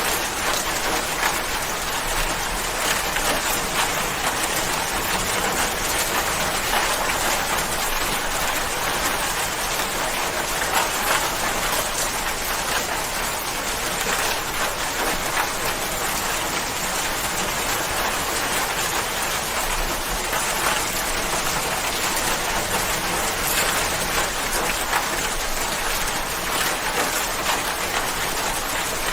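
Steady rainfall: a dense, even patter of many raindrops landing on a surface, with no let-up.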